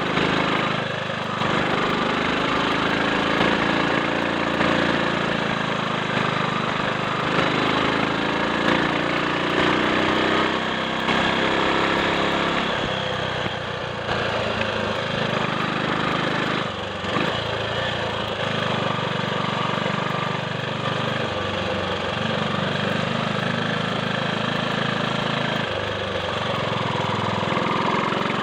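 A Triumph Sports Cub's single-cylinder four-stroke engine running on the move. Its pitch steps up and down several times as the revs change, with a few brief dips along the way.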